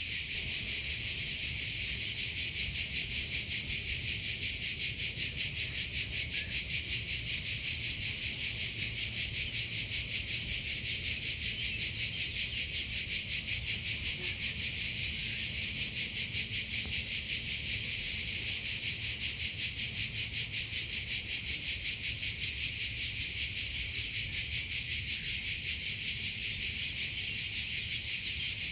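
Crickets chirping in a steady, high-pitched, rapidly pulsing trill that keeps up without a break.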